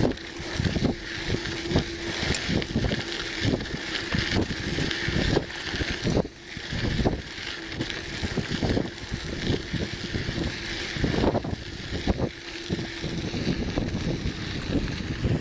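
Wind buffeting the microphone while riding a bicycle along a trail, with frequent short knocks and rattles and a faint steady hum that comes and goes.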